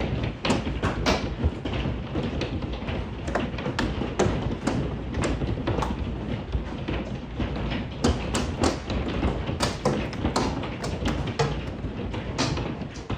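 Hailstones striking hard surfaces in an irregular clatter, several sharp hits a second, over a steady hiss.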